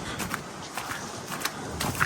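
Footsteps in snow over outdoor city street noise, with short irregular steps.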